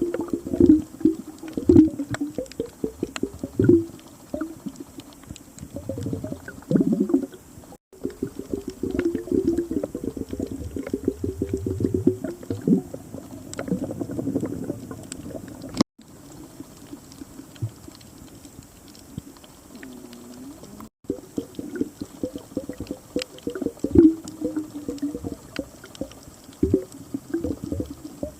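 Underwater water noise: bubbles gurgling and water churning in irregular bursts, muffled and low in pitch, cut off briefly three times.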